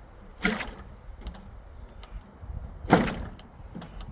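Propeller of an OS GF40 four-stroke model airplane engine being flipped by hand with the choke on to prime it: two short loud swishes about two and a half seconds apart, with lighter clicks between. The engine does not fire, because the carburettor is not yet wet with fuel.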